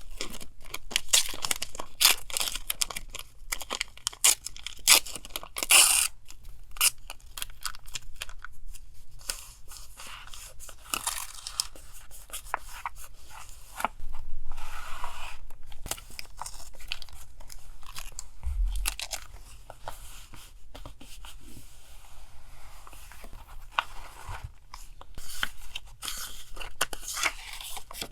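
Paper being handled for a collage: close crinkling, crackling and tearing, busiest in the first few seconds, with a longer tearing or rustling stretch about halfway and a soft low bump on the desk a little later.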